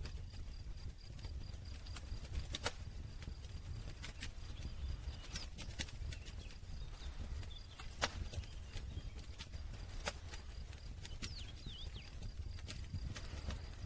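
Wood campfire crackling: scattered sharp pops, the loudest about eight seconds in, over a steady low rumble of the burning fire.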